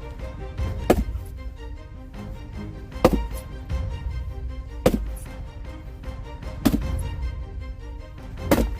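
Axe splitting firewood logs: five sharp chopping strikes, evenly spaced about two seconds apart, over background music.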